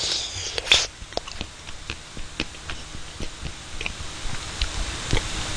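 Chewing chocolate mousse ice cream: the frozen chocolate chips in it crunch between the teeth in a run of small, irregular crunches and clicks.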